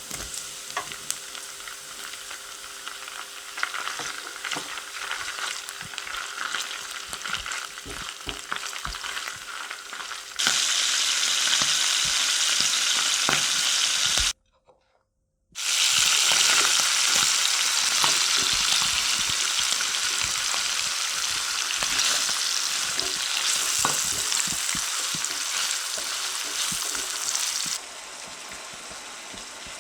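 Food sizzling in oil in a frying pan, with many small taps and scrapes of a utensil stirring it. The sizzle becomes much louder about a third of the way in, breaks off briefly near the middle at an edit, and is quieter again near the end.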